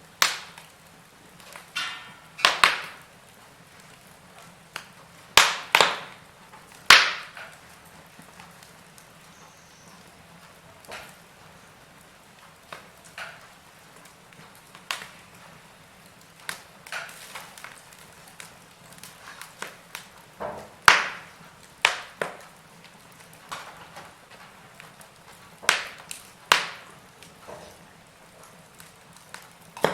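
Fire crackling, with irregular sharp pops every second or two, some much louder than others, over a faint steady hiss.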